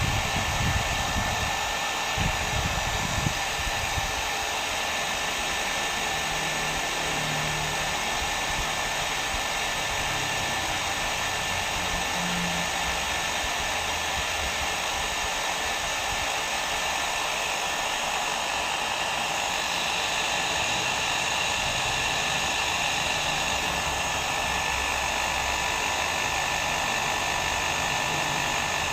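Hair dryer blowing steadily: an even whooshing rush of air over the fan motor with a faint high whine. There are a few low bumps in the first three seconds.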